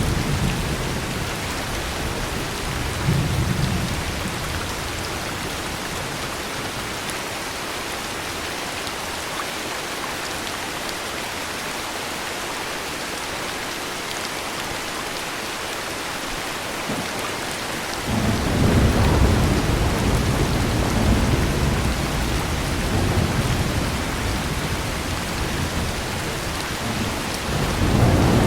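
Heavy rain falling steadily with thunder rumbling. A low rumble dies away in the first few seconds, then a new rumble starts suddenly about 18 seconds in and rolls on, swelling again near the end.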